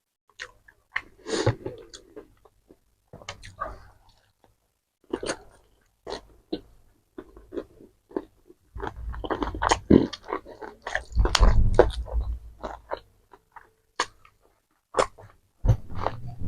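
Close-miked chewing and lip-smacking while eating fast food: irregular wet clicks and smacks with short pauses between them. The sounds get louder and denser, with deeper thuds, in the second half.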